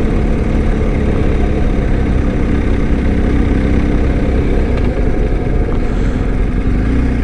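BMW R1250's boxer-twin engine running steadily as the motorcycle rides along, with road and wind noise, the engine note shifting slightly near the end.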